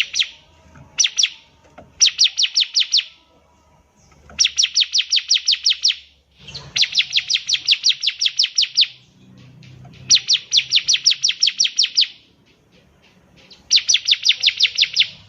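Bar-winged prinia (ciblek) singing: repeated bursts of rapid, identical high chips, about eight a second. Each burst lasts one to two seconds, with short pauses between.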